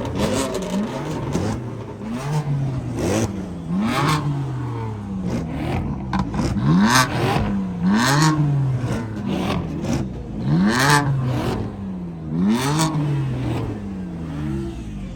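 Car engine revved over and over, its pitch sweeping up and falling back about once a second, the loudest revs flaring sharply at the top.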